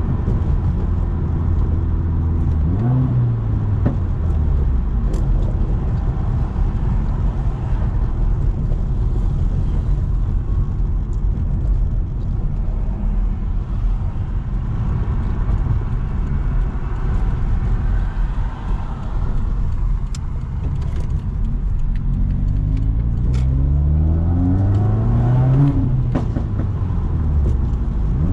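Straight-piped exhaust of a Subaru WRX's turbocharged flat-four, muffler and resonator deleted, under way: the engine note climbs briefly near the start, holds a steady drone through a long cruising stretch, then rises through the revs again in the last quarter with drops between gears. A few sharp cracks come through around the later acceleration.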